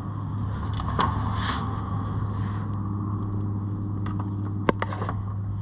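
A steady low hum runs throughout, with a few sharp metallic clicks from a wrench working on tight engine-cover bolts on an ATV, about a second in and twice close together near the end.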